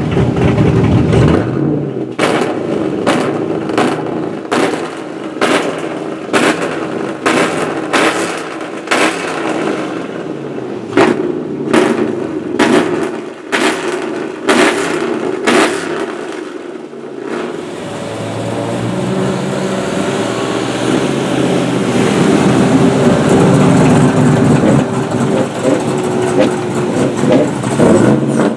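LSX 454 V8 in a BMW M3 E36 drift car, revving hard. For the first half it gives a run of sharp cracks, about one every half second to second. From just past halfway it holds a steady, loud high-rev run to the end.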